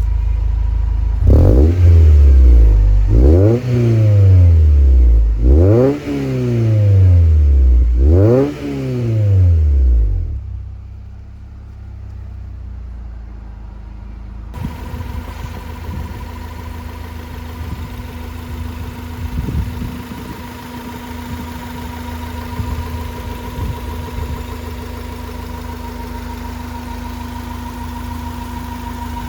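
Honda Torneo SiR's engine through an aftermarket muffler, blipped four times in quick succession, each rev rising and falling, then dropping back to a steady idle. About halfway through, a steady hum joins the idle, with a few light clicks.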